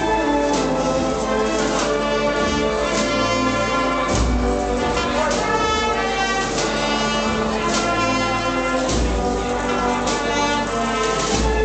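Processional marching band of brass and drums playing a Holy Week march, with sustained brass chords over regular drum strokes and a deep bass-drum thump about every four to five seconds.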